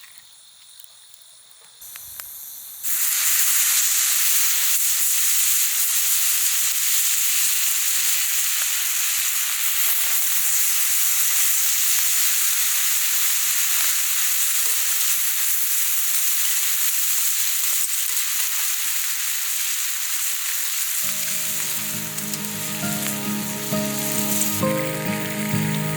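Meat sizzling on a grill over a campfire: a loud, steady hiss of fat frying that starts abruptly about three seconds in. Background music comes in near the end.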